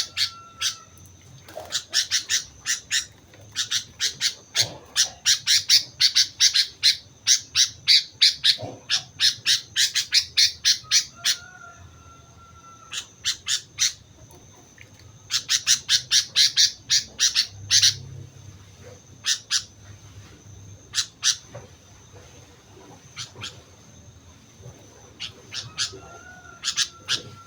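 Sooty-headed bulbul calling in quick bursts of sharp, harsh notes, several a second, broken by short pauses. A thin, steady high tone runs behind.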